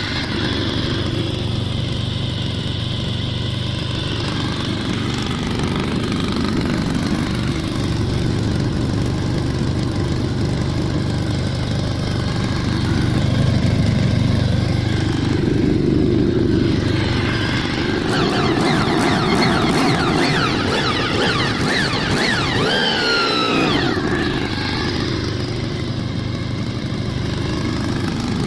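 Honda VFR800's V4 engine running, mostly steady with the revs rising and falling now and then in the second half.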